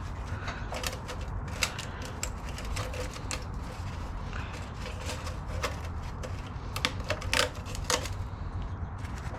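Irregular metallic clicks and clinks of hand tools and loose engine parts being handled and set down, a few of them ringing briefly, over a steady low hum.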